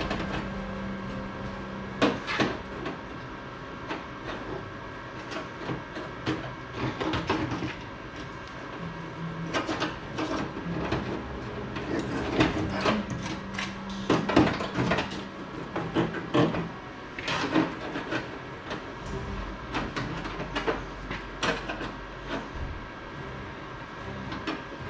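Irregular knocks, clanks and clatter of hand work on parts, over a steady hum.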